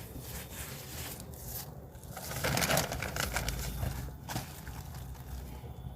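Dry peat moss rustling as it is handled, with a louder rustling stretch about two and a half seconds in.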